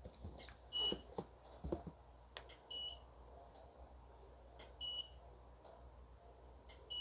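Faint short electronic beeps, four of them evenly about two seconds apart, with a few soft clicks and knocks in between.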